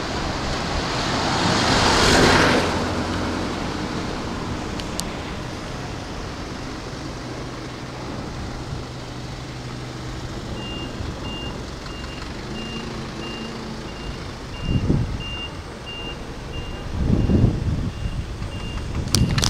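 Keikyu 2100-series electric train running past, its wheel and running noise peaking about two seconds in and fading, over a steady low hum. About ten seconds in, a high electronic beep starts repeating a little under twice a second, and two short low rumbles come near the end.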